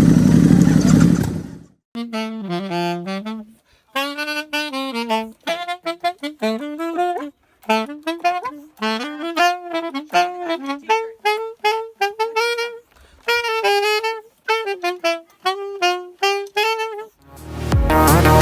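Solo saxophone playing a melody in short phrases with brief pauses and no accompaniment. A loud rumble cuts off about a second and a half in, before the saxophone starts.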